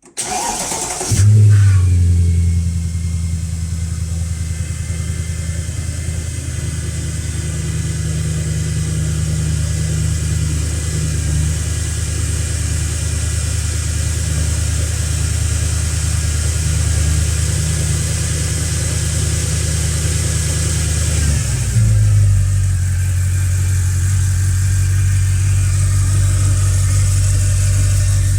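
Cold start of a 2008 Mercedes-Benz ML63 AMG's 6.2-litre V8: it cranks briefly and fires about a second in with a loud flare, then runs at a steady fast cold idle. About 21 seconds in the engine note changes and settles into a steady idle again.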